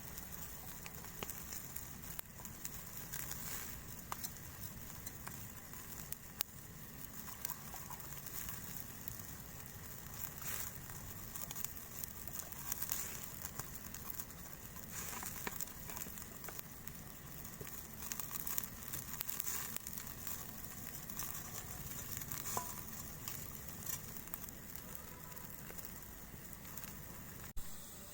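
Wood campfire crackling, with many small irregular pops and light rustling. The sound changes abruptly near the end.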